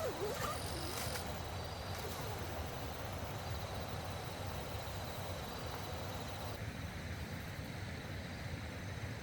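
Steady rushing of a fast stream, with insects trilling high above it until about two thirds of the way through.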